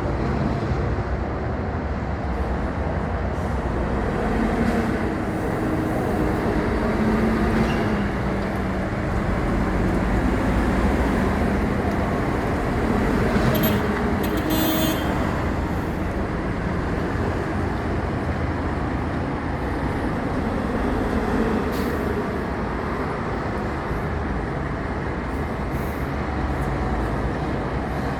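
A heavy road vehicle's engine runs steadily throughout, its pitch drifting a little, and a brief high-pitched tone sounds about halfway through.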